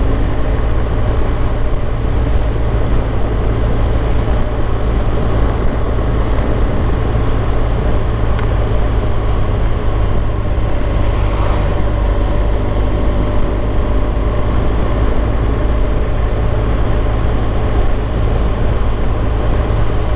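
BMW R1200 GS boxer-twin engine running steadily while the motorcycle is ridden at road speed, a constant low rumble with a steady engine tone.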